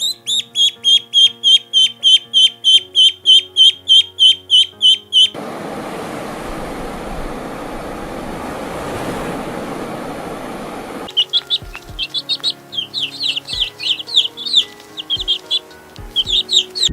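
A bird chirping rapidly, about four short calls a second, over background music with held notes. About five seconds in, the chirps give way to a steady hissing noise for several seconds, and then irregular chirping returns over the music.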